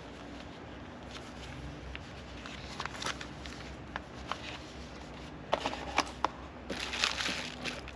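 Packaging being handled: rustling and crinkling with scattered sharp clicks, three distinct clicks a little past the halfway point and a louder burst of rustling near the end.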